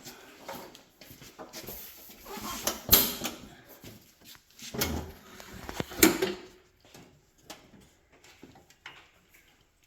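Irregular handling knocks and clatters, with two sharp clanks about three and six seconds in and a duller thud between them.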